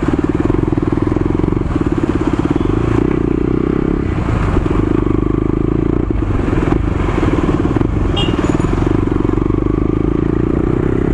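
KTM Duke single-cylinder four-stroke engine running steadily at low road speed, heard from the rider's seat over road and wind noise, its note dipping briefly about four and six seconds in.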